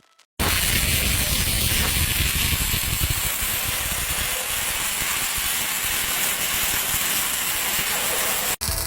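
Welding arc on an automatic welding cart (carriage-mounted torch), a steady loud hiss and crackle that starts abruptly just under half a second in and breaks off briefly near the end.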